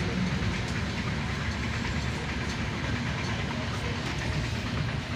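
Moving passenger train heard from inside a sleeper coach: a steady rumble and rattle of the carriage running on the rails.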